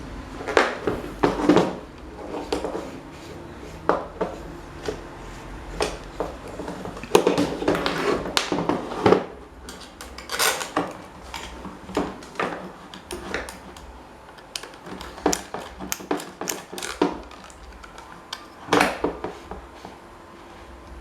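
Irregular metallic clinks and knocks, some ringing briefly, as metal parts are handled and set down.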